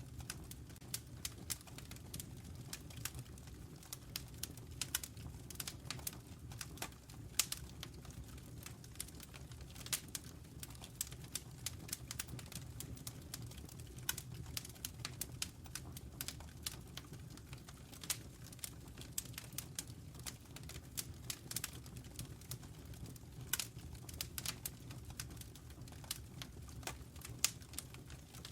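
Wood fire burning in a fireplace, crackling and popping in quick irregular snaps over a low steady rumble of the flames.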